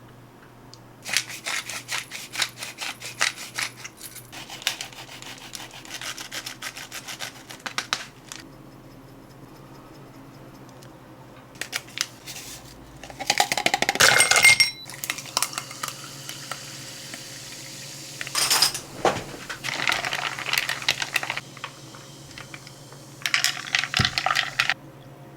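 Dishes and utensils clattering in several bursts of quick small clicks and clinks, the loudest about halfway through, over a steady low hum.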